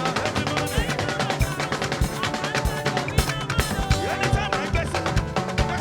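Live band music with a driving drum kit (bass drum and snare) keeping a steady beat under pitched instruments.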